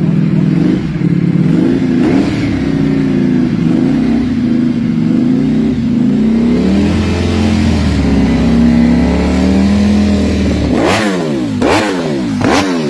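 Ducati Panigale V4 Speciale's V4 engine through an Akrapovic exhaust, running at a lumpy, wavering idle, then blipped sharply three times near the end, each rev rising and dropping quickly.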